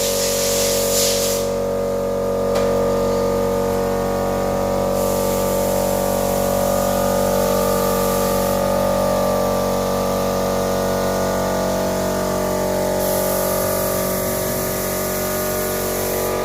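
A machine running steadily: a drone of several steady tones with a hiss over it that steps louder about five seconds in and again near the end.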